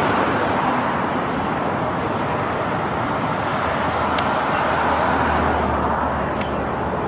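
Steady road traffic noise: cars going by, with tyre and engine noise swelling slightly at times.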